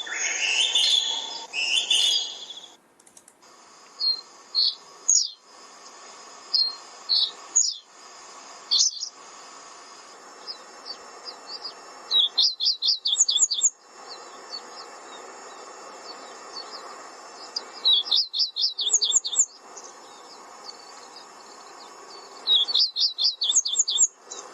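Songbirds singing: assorted short high chirps and whistles, then one bird's quick run of about eight high notes, repeated three times about five seconds apart. A steady faint hiss lies underneath.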